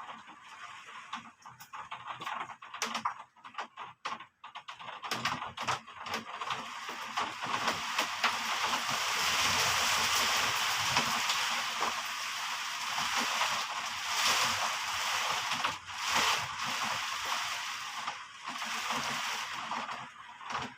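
Heavy rain, at first uneven, with many separate drips and splashes. After about seven seconds it thickens into a steady downpour.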